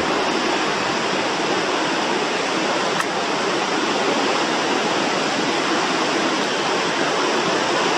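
Roar of a large monsoon-fed waterfall, a steady dense rush of falling water.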